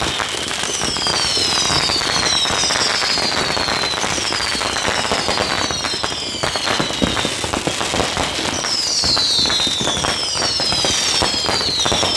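Fireworks and firecrackers going off continuously: a dense run of rapid pops and cracks, with high whistles that fall in pitch again and again in runs of three or four.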